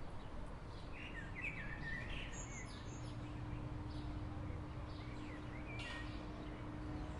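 Outdoor ambience: a steady low background rumble with birds chirping over it, in a few short bursts of song.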